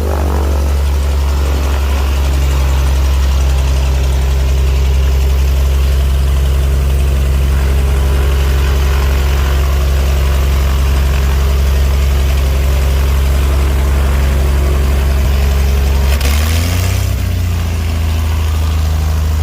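An engine running steadily with a deep, constant hum. About three-quarters of the way through, a short rush of noise comes and the hum briefly shifts in pitch.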